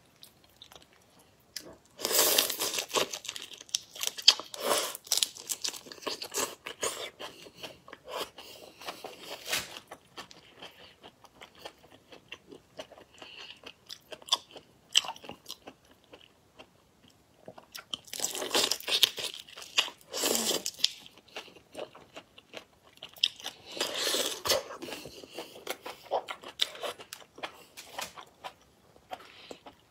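Close-miked chewing and crunching of raw marinated shrimp, in several loud bouts of crackly crunching with quieter chewing between.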